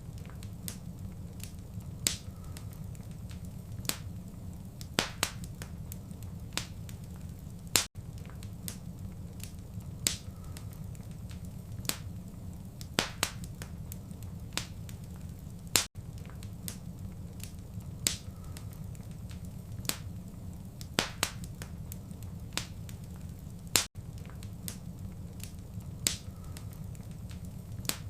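Fireplace crackling: sharp pops and snaps scattered irregularly over a steady low rumble of burning fire. The sound cuts out for an instant about every eight seconds, where the looped recording repeats.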